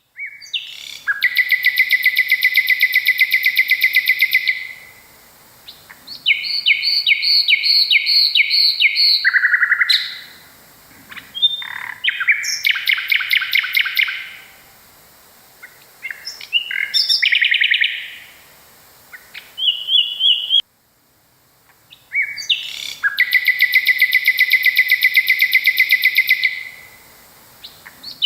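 Common nightingale singing: phrases of rapidly repeated loud notes, each a few seconds long, separated by short pauses.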